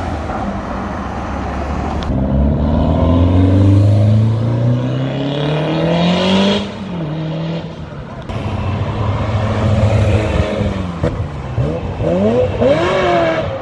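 Performance car engines accelerating hard: one engine's pitch climbs steadily for about four seconds, then cuts off sharply, and near the end another engine gives quick throttle blips, its revs swinging up and down.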